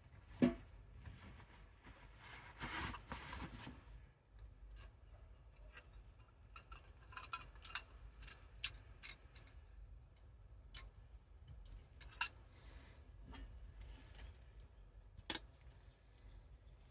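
Small sharp clicks and taps scattered irregularly, with a stretch of rustling about two seconds in: small objects being handled in a small room.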